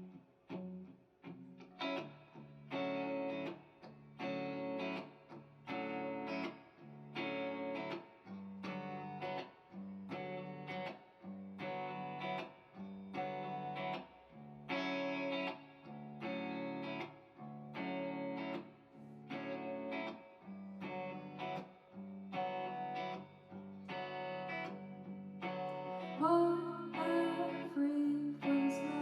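Live band music: a guitar intro of repeated chords in a steady rhythm, with more parts joining near the end.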